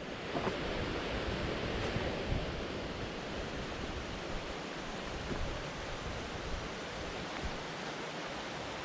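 A steady rushing noise, even and unbroken, with a few faint knocks in it.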